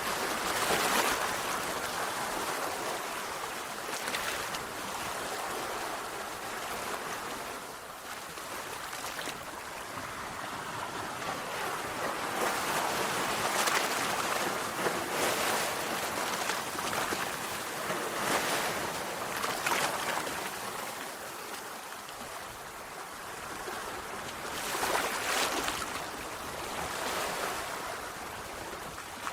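Sea waves breaking and washing on a shore: a continuous rushing hiss that swells with each wave every few seconds.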